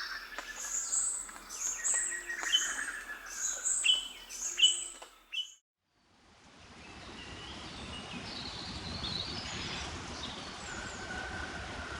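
A bird calling over and over, a string of short high whistled notes repeated about once a second, which breaks off suddenly about five and a half seconds in. After a moment of silence, a steady forest ambience hiss fades in, with faint bird calls over it.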